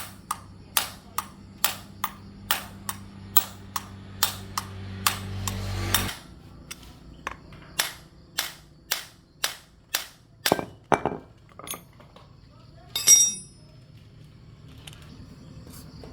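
Hammer strikes, evenly paced at about two a second, over a steady low hum that cuts off suddenly about six seconds in. The strikes stop near twelve seconds, followed by one louder, ringing hit.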